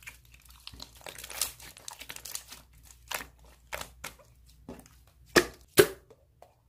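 Slime being handled: a string of crinkly, crackling squishes, with two louder crackles close together near the end.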